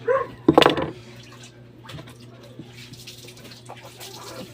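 A dog barking: a short pitched yelp at the start, then a louder bark about half a second in, over a steady low hum.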